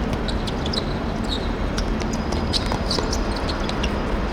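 Outdoor ambience of a seven-a-side football match on a hard dirt pitch: a steady low rumble with scattered short clicks and taps.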